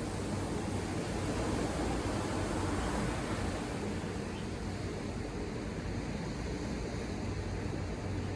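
Ocean surf washing against the shore: a steady rush of waves that swells a couple of seconds in and then eases.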